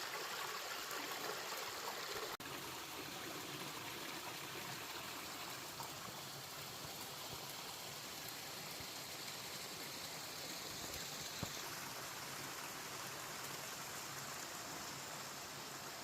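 Small stream of water running steadily, a continuous rushing with no pauses; the sound cuts out for an instant about two seconds in.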